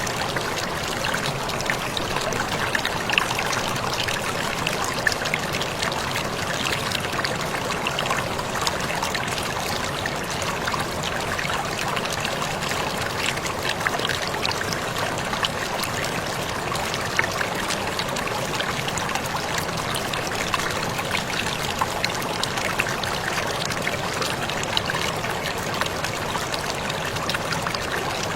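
Waterfall running steadily: an even rush of falling, splashing water with small scattered splashes standing out.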